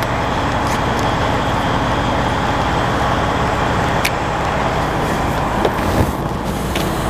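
BMW 750Li's twin-turbo V8 idling steadily, with a few light clicks over it.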